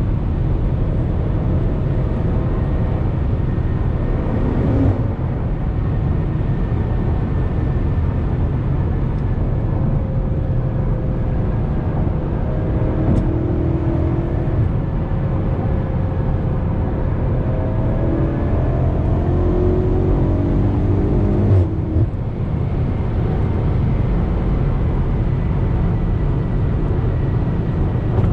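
BMW M5 Competition's twin-turbo V8 and exhaust cruising on the road: a steady low drone with road noise. The engine note rises and falls a few times past the middle, and there are two brief knocks, one about five seconds in and one about three-quarters of the way through.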